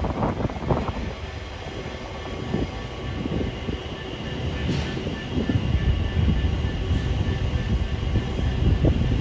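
A train running at the station: a heavy low rumble that rises and falls in loudness, swelling again near the end, with a faint steady whine above it.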